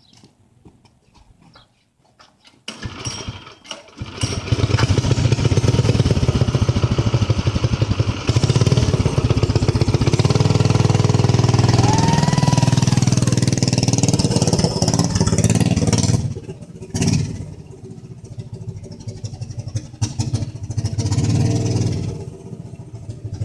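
A mini bike's small engine is started. After a few seconds of pulling it catches about four seconds in and runs loudly. About sixteen seconds in it drops to a lower, uneven running that wavers up and down. The owner says a messed-up throttle cable makes the engine tend to die.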